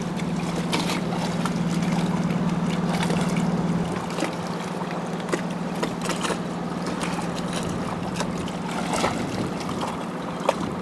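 Large ocean swell breaking as surf: a steady wash of water with scattered splashes. Under it runs a steady low hum that drops away about four seconds in.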